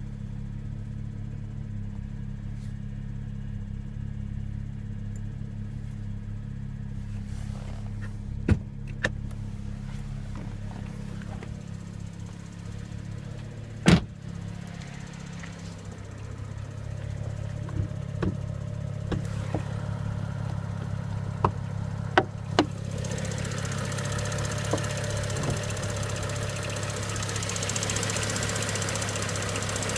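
BMW 335i's N55 turbocharged straight-six idling steadily, with a few sharp, irregular clicks; a hiss comes in about two-thirds of the way through. The owner is listening for a strange rattle or ticking that he hears on cold start.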